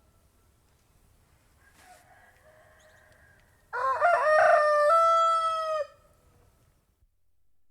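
A domestic rooster crows once, a little past halfway in: a broken, rising start, then a long held note that stops abruptly after about two seconds.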